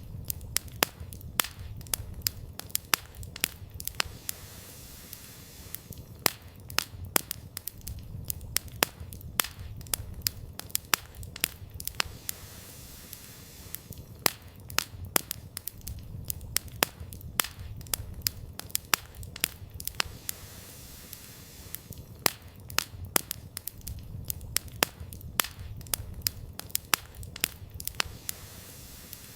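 Wood campfire burning, with many irregular sharp crackles and pops of the firewood over a steady low rumble of the flames; the pops come thicker every several seconds.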